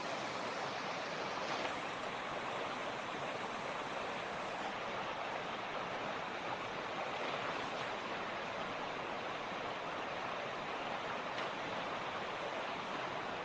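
Mountain creek flowing, a steady, even rush of water.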